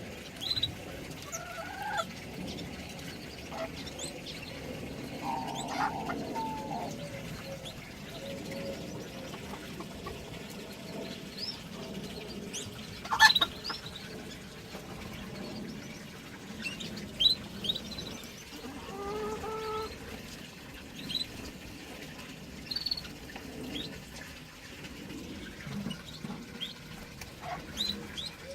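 Mixed cage birds chirping and calling: scattered short high chirps and tweets, lower calls, and one loud sharp call about thirteen seconds in.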